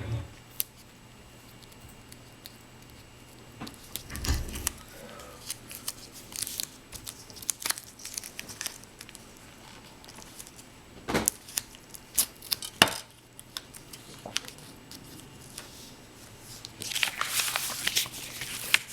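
Art materials being handled on a table: scattered light taps and clicks, a low bump about four seconds in, and a burst of crinkling paper near the end.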